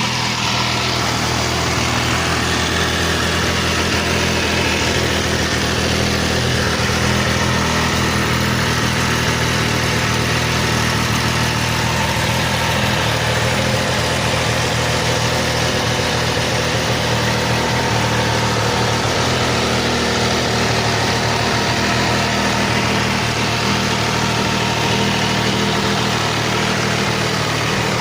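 2014 MV Agusta F3 800's three-cylinder engine idling steadily.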